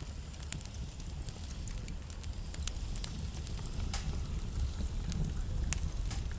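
Wood fire burning in a fireplace: a steady low rumble of flame with irregular crackles and sharp pops from the burning logs, a few louder pops about four and nearly six seconds in.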